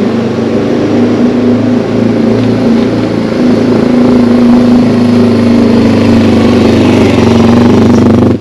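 Yamaha TW200's single-cylinder four-stroke engine running steadily under way, loud and close, its pitch lifting a little about halfway through. It cuts off suddenly at the end.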